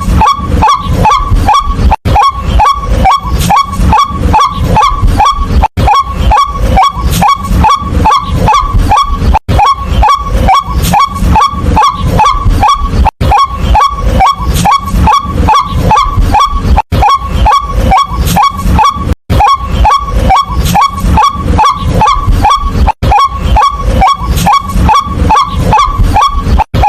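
White-breasted waterhen calling: a loud, fast, even run of harsh 'kwak' notes, about three a second. The same short stretch repeats about every four seconds, with a brief gap between repeats.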